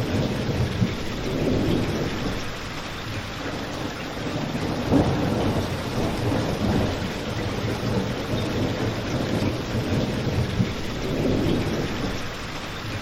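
Steady rain blended with a crackling fireplace: a continuous low, rumbling wash of noise with a few sharp pops from the fire.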